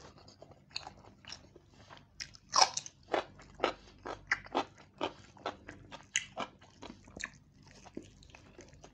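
A person chewing and biting roast chicken and basmati rice close to the microphone, mukbang-style: a quick run of short, sharp mouth sounds about two a second, the loudest about two and a half seconds in.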